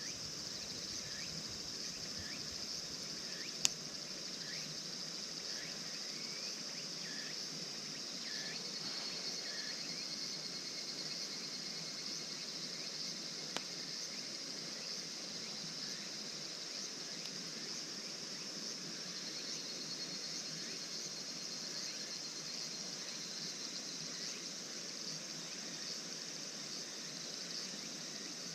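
Steady high-pitched chorus of insects, with a few short chirps in the first ten seconds and a couple of single sharp clicks.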